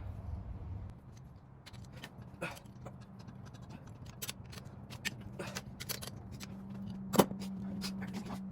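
Metal clinks, taps and rattles of hand tools and bolts as cylinder head bolts on a Ford 302 engine are worked loose, with one sharp metal clank about seven seconds in. A steady low hum comes in about six seconds in.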